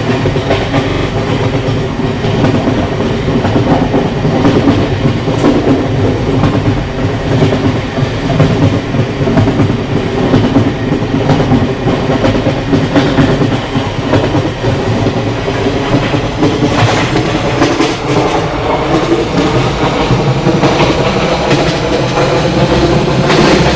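Diesel-hauled passenger train running by, a steady loud rumble of locomotive and carriages on the rails, with scattered short clicks from the wheels.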